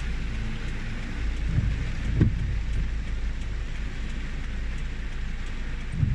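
Steady rain falling over a continuous low rumble, with one dull thump about two seconds in.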